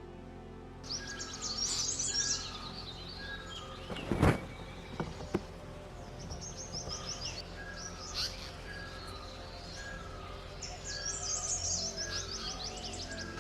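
Forest birds singing. One repeats a short steady note followed by a falling slur about once a second, while others give bursts of high, rapid chattering near the start and again near the end. There is a single loud knock about four seconds in, with two fainter clicks soon after.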